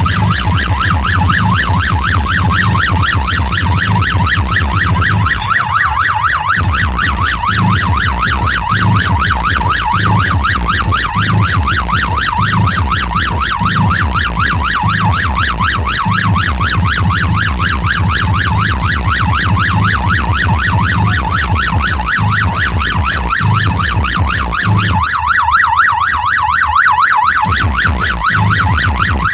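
Fast-warbling electronic siren tone played loud through a large DJ sound system, with a heavy pulsing bass underneath. The bass thins out briefly about six seconds in and again near the end while the warble carries on.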